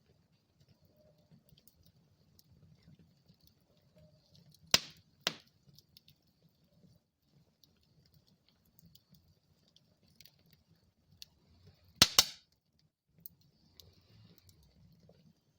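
Wood fire burning in a fireplace: a low rumble of flames with faint crackling, two loud pops from the logs about five seconds in, half a second apart, and a louder double pop about twelve seconds in.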